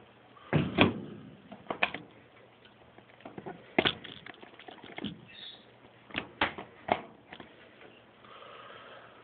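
Hand tools working on a hose clamp inside a top-load washing machine tub: a string of sharp clicks and knocks, about a second apart.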